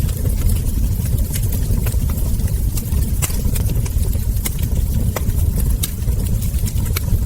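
Wood fire crackling: sharp, irregular pops and snaps, several a second, over a steady low rumble from the burning logs.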